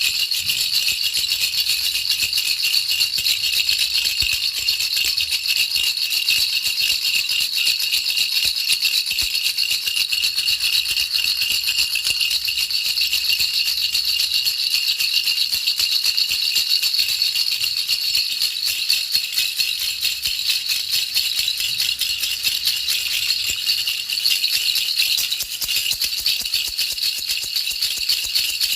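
Baby rattle shaken without a break, giving a dense, fast, even rattling.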